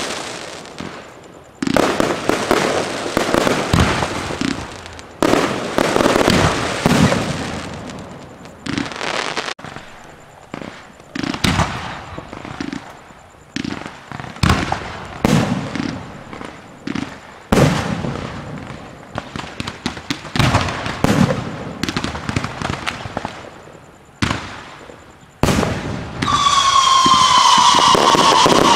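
Aerial fireworks shells bursting one after another, each sharp bang trailing off in a crackling, fading tail, at irregular gaps of about one to two seconds. Near the end, loud music with a held, slightly falling tone comes in over them.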